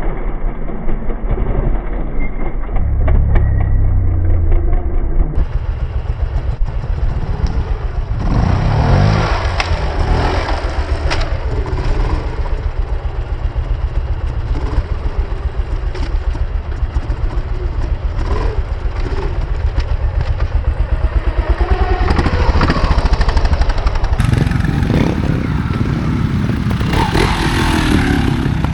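Trials motorcycle engine being ridden, the revs repeatedly rising and falling as the throttle is blipped; the sound changes abruptly twice as one take gives way to another.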